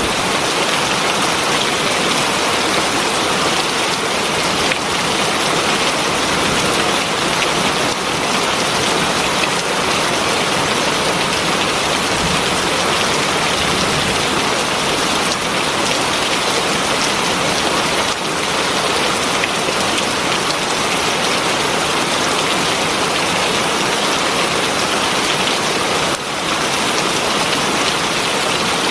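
Heavy rain falling steadily, an even dense hiss of drops striking surfaces.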